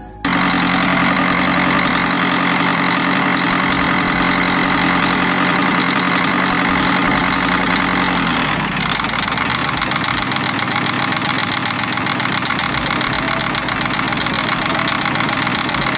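A small electric motor starts abruptly and runs with a steady whine. About halfway through, its pitch drops a little and its tone changes.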